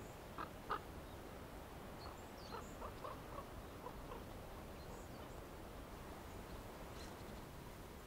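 Faint, short squeaky bird calls over a quiet outdoor background: two notes about half a second in, then a quick run of about six short notes around the middle.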